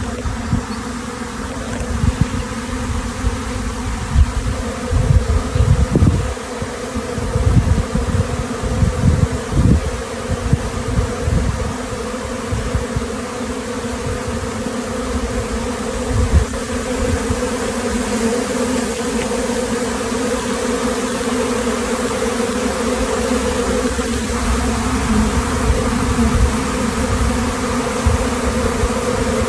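A honey bee swarm buzzing, a steady many-winged drone. Irregular low rumbles and thumps run under it, mostly in the first ten seconds.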